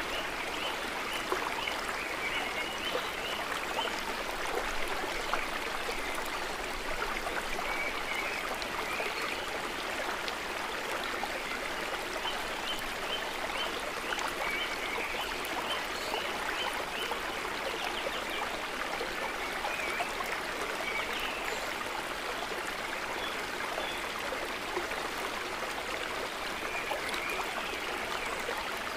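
Water trickling and babbling gently and steadily. Short runs of faint, high, repeated chirps come through every few seconds.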